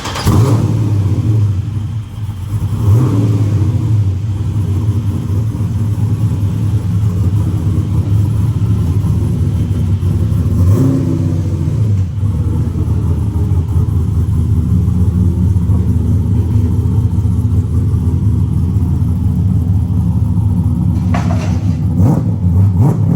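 Chevrolet LS3 6.2-litre V8 in a drift car running loud and steady, with brief changes in revs early on and around the middle. It cuts off abruptly at the end.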